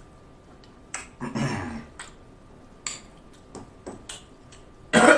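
Close-up mouth sounds of a person chewing a forkful of green beans: scattered wet smacks and clicks, with a breathier stretch about a second in. Near the end a loud throat clearing, from food seasoned with too much red pepper flake.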